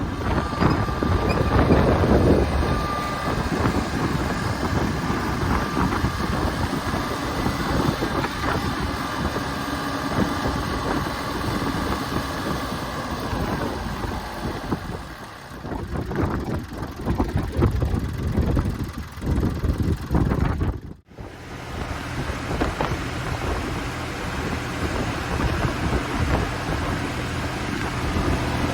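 1991 Ford 1220 diesel tractor engine running, with heavy wind buffeting the microphone. The sound drops out abruptly for a moment about two-thirds of the way through.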